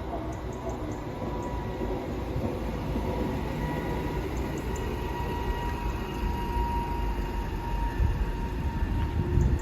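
Class 139 single-car railcar running: a steady low rumble with a faint high whine, growing a little louder, with a few heavier low thumps near the end.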